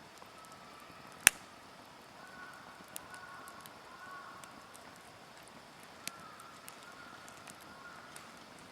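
Wood campfire crackling, with scattered sharp pops, one much louder about a second in, and a faint wavering whistle from the burning wood.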